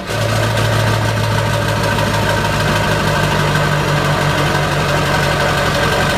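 Ford 7.3 Powerstroke V8 turbo-diesel idling steadily through a 4-inch straight-pipe exhaust, just after starting.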